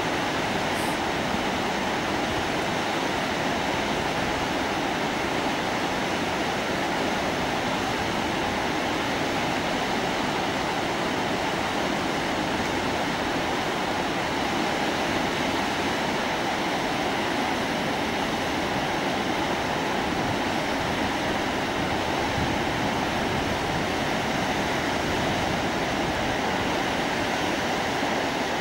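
The fast-flowing Indus River rushing steadily, a constant even wash of white water with no change in level.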